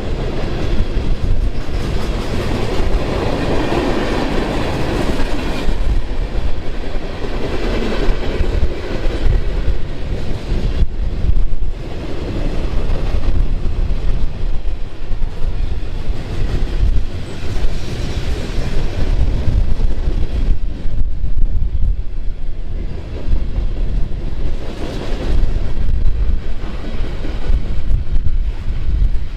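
Freight train M410 rolling past close by: a loud, steady run of wheels on rails as its cars go by.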